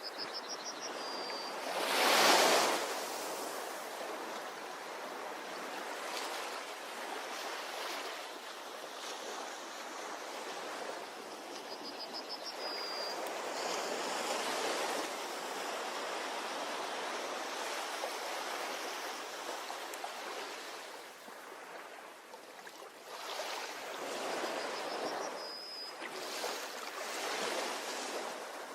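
Ocean waves breaking and washing up a beach, one wave crashing loudly about two seconds in, with softer surges in the middle and near the end.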